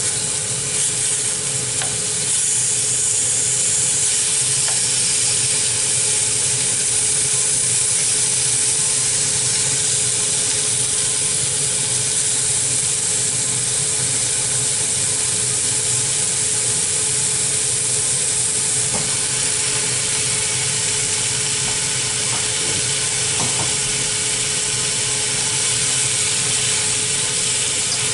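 Sliced onions and pork sizzling steadily in a stainless saucepan while being stirred with chopsticks. Under it runs a steady hum and a thin constant tone, typical of a kitchen range-hood fan.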